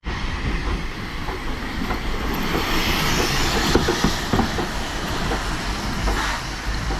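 Train rolling along the track, a steady rumble with the irregular clatter of wheels over the rails.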